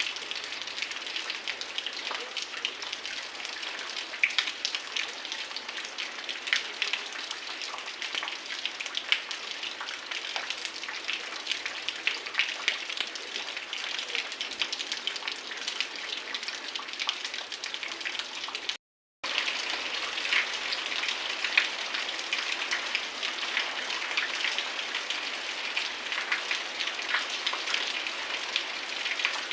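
Heavy rain falling, a dense, steady patter of drops hitting surfaces. It cuts out completely for a moment about two-thirds of the way through, then resumes as before.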